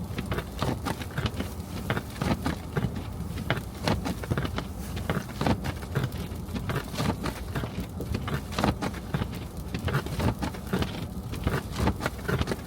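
A car driving on snowy city streets: a steady low rumble of road and engine noise, with irregular crackling ticks throughout.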